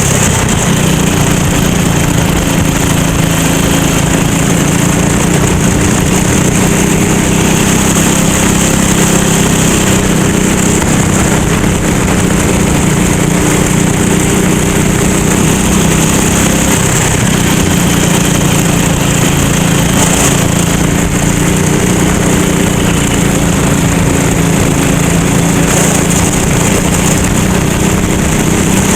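Rental go-kart engine running continuously under race load, its note wavering slightly up and down, with a brief dip about two-thirds of the way through.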